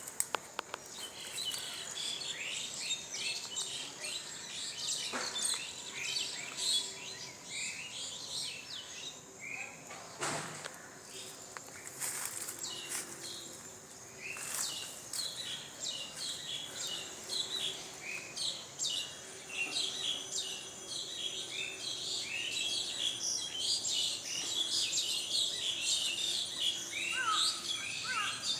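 Many small birds chirping and trilling in quick short calls, with a couple of sharp clicks about ten and twelve seconds in.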